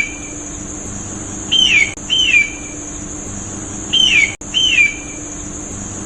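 Hawk calling: short cries that slide downward, mostly in pairs about half a second apart, repeating every couple of seconds over a steady high-pitched hiss.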